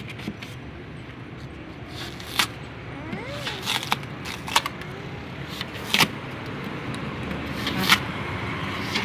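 A series of sharp clinks and knocks, about six, scattered over a steady low hum, like metal parts or tools being handled; the loudest comes near the end.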